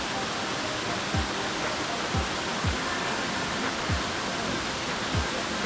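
Steady rushing of a waterfall. Five short, low thuds that drop in pitch come through it, roughly a second apart.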